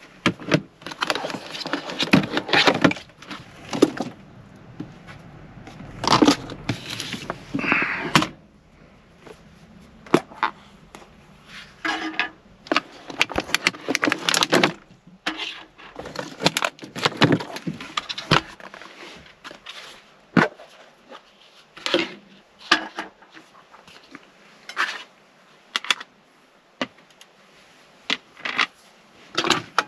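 Irregular clicks, knocks and scrapes of things being handled in a small space, coming in clusters with short quiet gaps.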